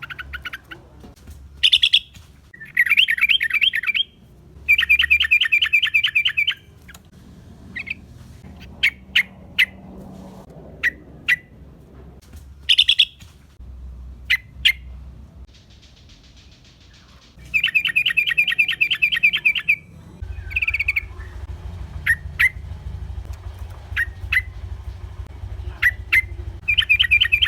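Yellow-vented bulbul calling: bursts of rapid chattering notes, each lasting a second or two, with single sharp chips between them. A low steady hum joins about two-thirds of the way through.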